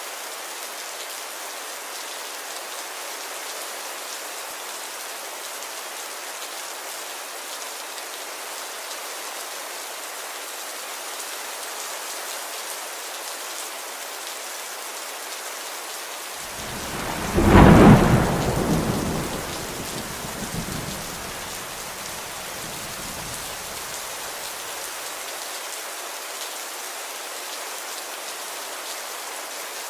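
Steady rain falling, with one clap of thunder about halfway through: a sharp crack that rolls on as a rumble for several seconds before fading back into the rain.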